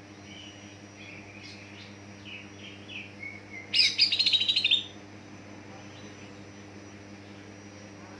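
Green leafbird (cucak ijo) singing: a few soft warbled notes, then a loud, rapid chattering phrase lasting about a second near the middle, over a faint steady hum.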